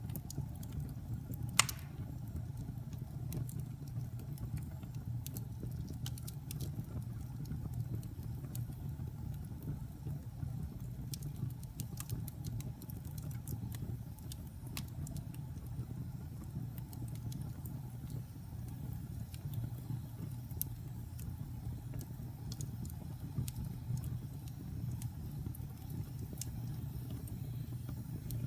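A wood fire burning in a fireplace: a steady low roar of flames with scattered sharp crackles and pops, one louder pop about a second and a half in.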